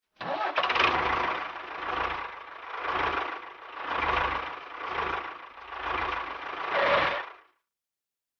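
A small motor running, its level swelling and fading about once a second, then cutting off abruptly.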